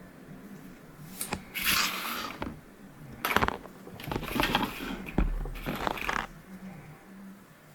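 Hard 3D-printed plastic parts being handled, with sharp clicks and knocks and several short scraping bursts.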